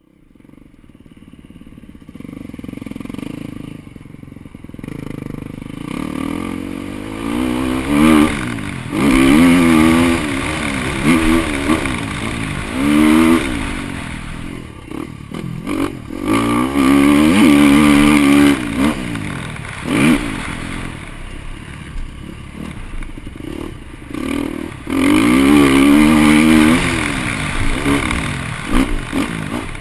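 KTM 350 four-stroke single-cylinder motocross bike engine, heard from the rider's helmet camera, revving up hard and backing off again and again, its pitch climbing and dropping with each burst of throttle. The sound fades in over the first few seconds.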